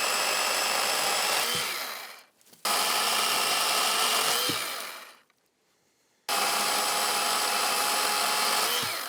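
Cordless electric saw cutting firewood: its motor runs in three bursts of about two and a half seconds, each with a steady whine that winds down when it stops.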